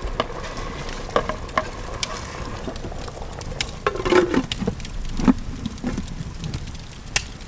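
Open wood fire crackling under a pot, with sharp scattered pops. About four seconds in, a metal clatter as the aluminium lid is set and pressed down on the pot.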